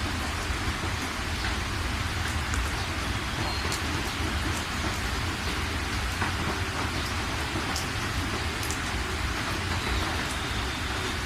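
Steady rain falling, a dense even hiss with many sharp single drop hits scattered through it and a steady low rumble underneath.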